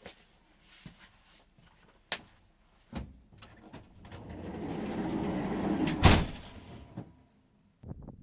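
A van's sliding door: a couple of clicks, then the door rumbling along its track and slamming shut about six seconds in.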